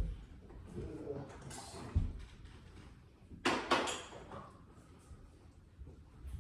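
A low thump about two seconds in, then two quick sharp clatters about a second and a half later, over faint low murmuring.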